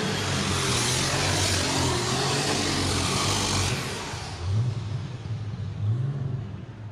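Alcohol-fuelled super stock pulling tractor's engine running loud at full power during a pull, the high-pitched exhaust noise dropping away about four seconds in. Then two short revs as the throttle is blipped.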